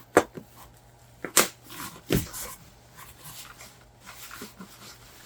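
Handling noise: several sharp knocks and clatters, the loudest near the start and about a second and two seconds in, with rustling between, as a package is opened and its packing is pulled out.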